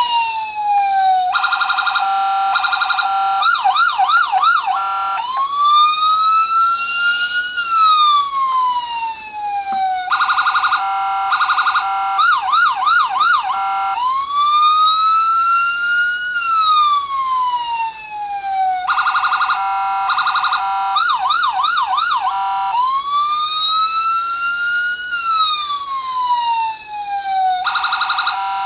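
Electronic circuit-board siren of a custom-built Dodge Charger LAPD police car cycling through its tones: a slow falling wail, a rapid two-tone hi-lo alternation, a fast warbling yelp, then a slow rising wail. The sequence repeats about every nine seconds, three times over.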